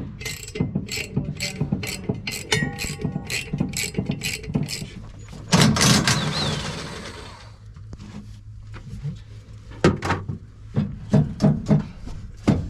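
Hand ratchet wrench clicking steadily, about three clicks a second, as a bolt on a combine is turned out. Partway through, a loud rushing hiss lasts about two seconds. Near the end come a few scattered clicks and knocks.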